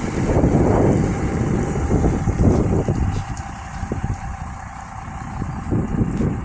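A motor vehicle running, under a gusting low rumble of wind buffeting the microphone.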